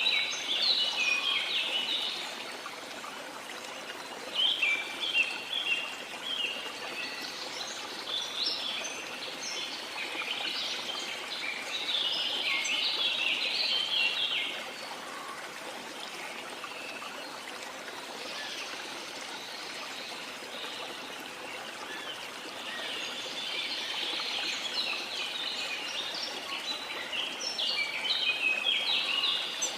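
Steady rush of falling water from a waterfall, under a chorus of tropical forest birds. The birds give clusters of quick, high chirps that come and go, thinning out to a lull in the middle.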